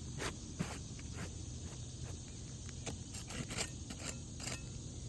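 Irregular short gritty scrapes and crackles of asphalt roof shingles being handled and rubbed, a dozen or so in a few seconds, over a steady low rumble.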